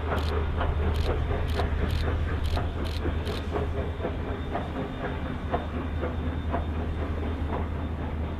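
Train rolling along the track, its wheels clicking over rail joints about twice a second over a steady low rumble; the clicks fade after about three seconds.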